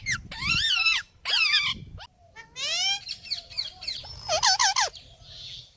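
A parrot calling: a series of short, pitched calls that rise and fall, with a quick run of three notes a little after four seconds in.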